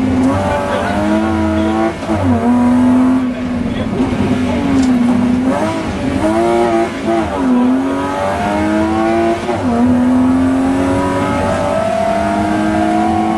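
Rally car engine heard from inside the cabin at full stage pace, its revs climbing and dropping sharply several times as the driver shifts gear and lifts for bends, then pulling up steadily near the end.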